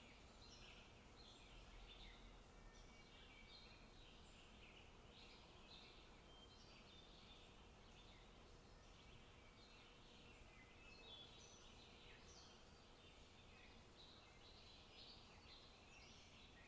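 Faint forest birdsong: many short chirps and trills from several birds over a soft steady hiss, the calls thinning out for a few seconds midway and picking up again.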